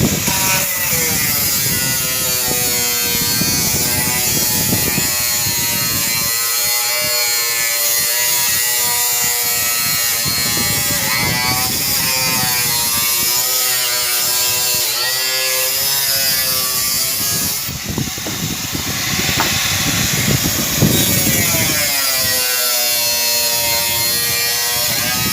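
Electric drill motor running for a long stretch, its whine gliding up and down in pitch as the speed changes under the trigger and the load.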